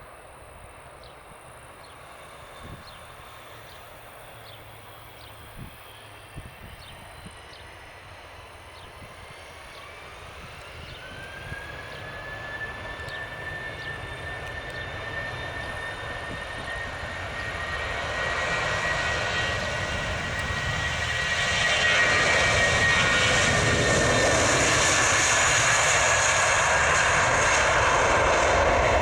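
Airbus A320's IAE V2500 turbofans spooling up for takeoff. A whine rises in pitch about ten seconds in and holds steady, while the engine noise grows louder throughout, with a broad roar and rumble building over the last ten seconds.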